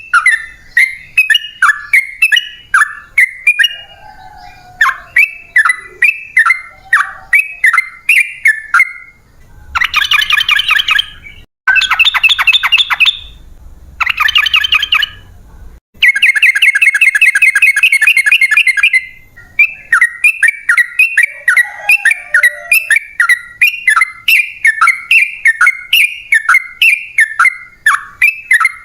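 Sooty-headed bulbul (trucukan) singing loudly: a fast run of short, sharp chirping notes, broken several times by dense rapid trills (the long 'ropel' style), the longest about three seconds, before the chirping run resumes.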